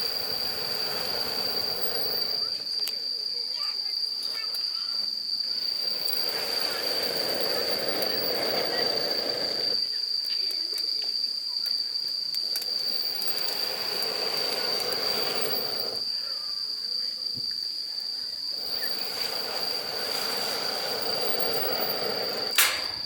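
Air blown through a telescoping fire-blowing pipe into a campfire: four long blows of rushing air, a few seconds each, with pauses between. A steady high-pitched insect call runs underneath, and there is one sharp click near the end.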